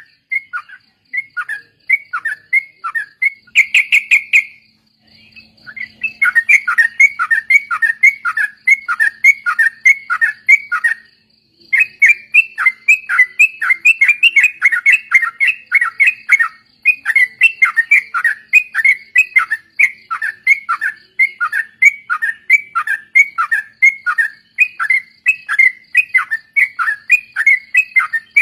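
Yellow-vented bulbuls (trucuk) singing in fast, chattering runs of short down-slurred notes, about three a second, with brief pauses twice. This is a rapid 'ropel' bulbul song used as a lure recording.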